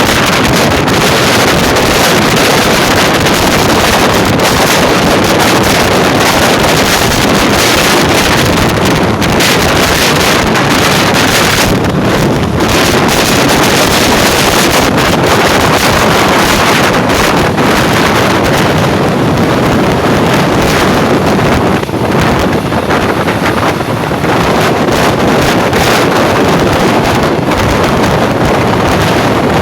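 Steady rush of wind buffeting the microphone from the open window of a moving passenger train, over the constant rumble of the train running on the track.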